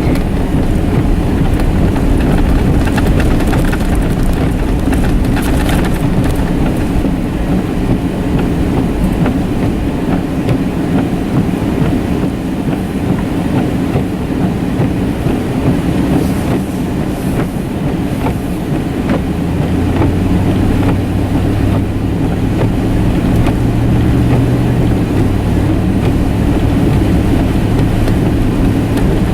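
A vehicle being driven on a snowy road: a steady low rumble of engine and tyre noise, with scattered clicks and rattles. The engine's hum steadies and grows stronger about two-thirds of the way through.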